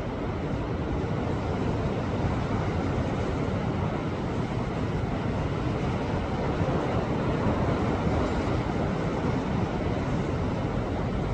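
Sea waves surging against a rocky shore: a steady, unbroken wash of surf noise.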